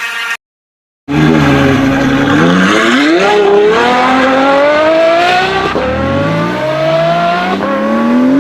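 Hyundai Accent with an automatic transmission accelerating, its whine rising in pitch with speed and dropping back at each gear shift: the humming that the transmission is being diagnosed for. The sound cuts in about a second in.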